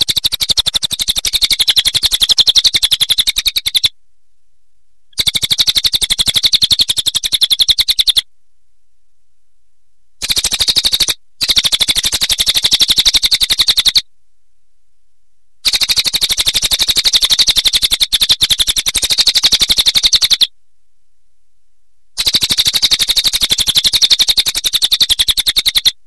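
Crested jay (cililin) calling: a fast, even rattle of pulses in bouts of about three to five seconds, five times over, with short silent gaps between.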